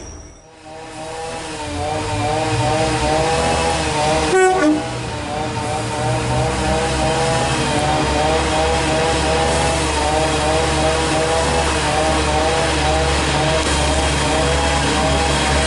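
Class 144 diesel multiple unit running, a steady engine drone whose pitch wavers in a regular rhythm over a low rumble, with a brief loud sound about four seconds in.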